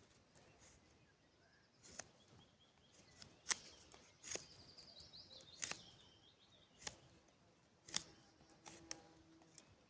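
Quiet forest sound with scattered light clicks and knocks of dry wooden sticks being handled, and a bird's high trill, falling in steps, twice in the middle.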